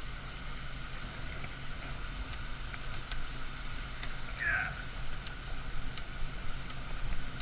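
Steady low engine hum of running machinery, with scattered light clicks and a short squeak about halfway through.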